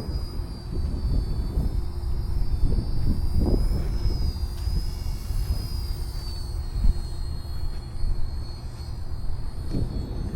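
RC UH-1 Huey model helicopter running, its motor and gears giving a steady high whine that wavers slightly in pitch, over a low rumble.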